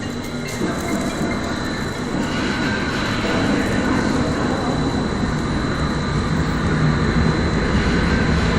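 Strong hurricane-force wind roaring steadily, growing louder about two seconds in, with a faint steady high whine throughout.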